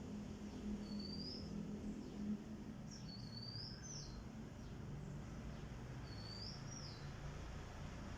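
Cockatiel calling: three short rising whistles, about three seconds apart, over a steady low hum.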